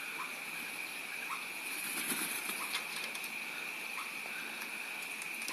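Birds flutter their wings briefly about two seconds in, with scattered short faint chirps over a steady high-pitched drone.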